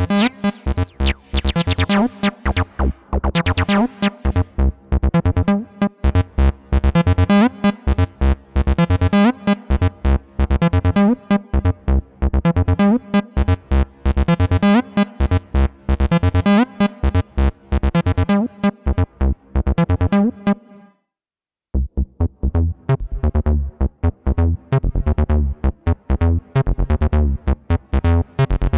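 Behringer TD-3-MO, a TB-303-style analog bass synth, playing a sequenced acid bassline of short, rapidly repeating notes, its tone brightening and darkening as the pattern runs. About 21 seconds in it stops for a moment and a new, bass-heavier pattern starts.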